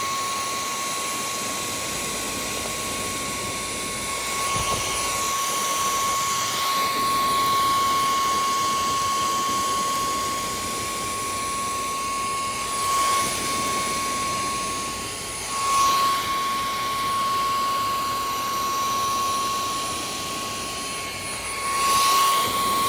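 Nvriow cordless stick vacuum running with a steady high motor whine over a rush of air. The sound swells briefly a few times as the 2-in-1 nozzle works over sofa upholstery.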